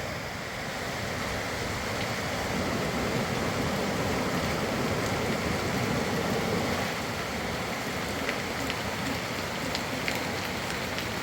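Heavy rain falling: a steady rushing hiss of water, with a few faint ticks of drops in the second half.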